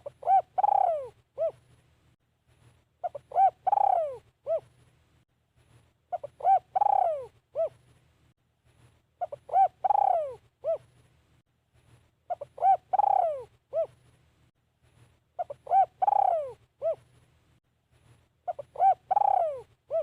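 Spotted dove cooing, a decoy bird repeating its phrase about every three seconds. Each phrase is a few short coos followed by a longer falling coo.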